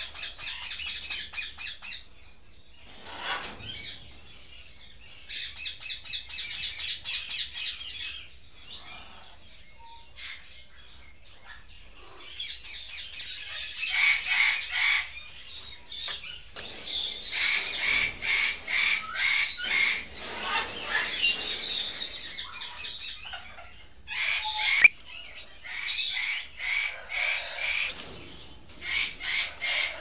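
Birds chirping and squawking in bursts of fast, repeated calls lasting a few seconds each, with short pauses between.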